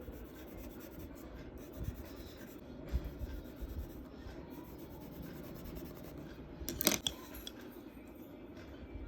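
Charcoal rubbing and scratching on drawing paper, with a brief louder scrape about seven seconds in.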